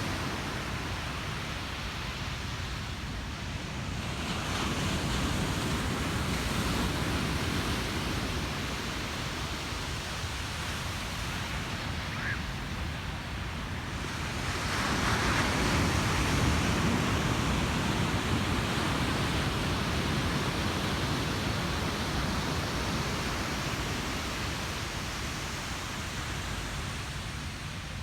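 Ocean surf breaking on a beach: a continuous wash of waves with two larger swells, one about four seconds in and a louder one about halfway through, then slowly fading.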